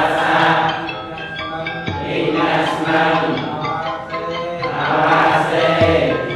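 Music of chanting voices over ringing mallet-struck notes, the voices swelling in roughly every two and a half seconds.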